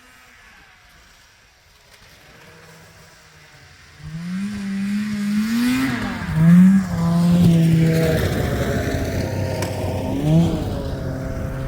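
Snowmobile engine, faint at first. About four seconds in it gets loud, revving up and down as the sled is ridden close by, with sharp revs about six and ten seconds in.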